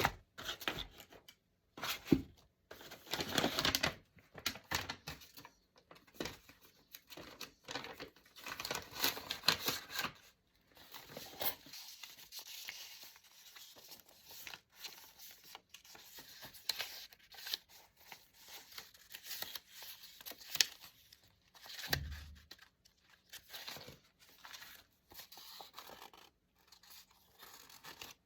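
Paper being torn and handled by hand, in irregular rustling, crinkling bursts with small taps, and a dull bump near the end.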